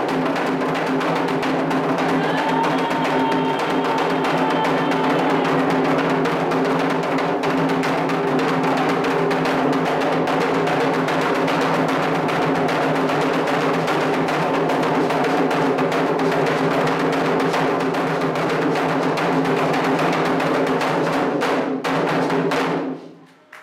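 Candomblé ceremonial drumming on atabaque hand drums, a dense and continuous percussion rhythm that cuts off near the end.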